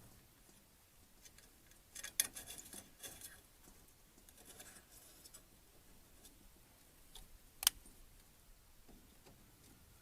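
Faint clicks and light metallic rattling as the small cover over a propane fridge's burner tube is handled and fitted back in place, with a cluster of clicks about two seconds in and one sharp click near the end.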